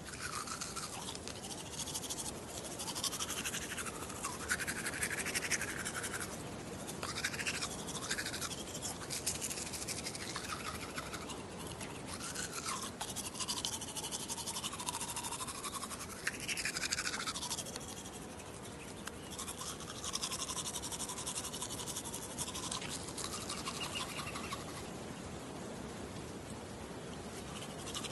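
Toothbrush scrubbing teeth in a continuous rasp of bristles, with its tone rising and falling as the brush moves around the mouth.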